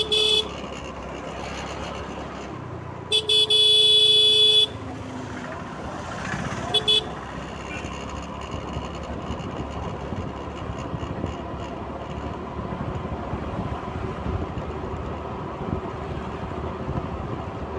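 Road traffic and engine noise with a vehicle horn honking three times: a short toot, a long blast of about a second and a half, then another short toot.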